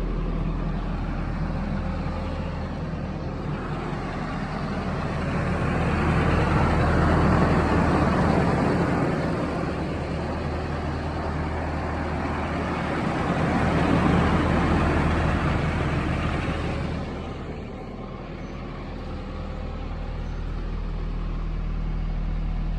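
Nissan 240SX four-cylinder engine running through its current exhaust, which is extremely quiet: a steady idle, with the engine note rising and falling slowly twice, about six and fourteen seconds in.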